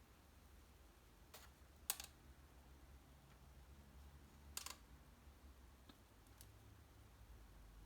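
Laundry hanger clicking a few times while laundry is hung up, loudest about two seconds in and again about four and a half seconds in, over a quiet, steady low hum.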